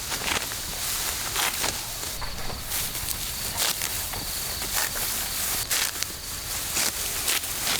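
Dry rice stalks rustling and crunching in irregular strokes as they are handled in the field, with a faint, steady high insect buzz behind.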